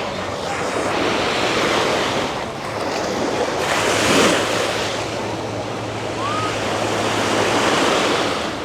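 Ocean surf washing onto the beach, a swell of breaking water peaking about four seconds in, with wind on the microphone. A steady low hum comes in about halfway through.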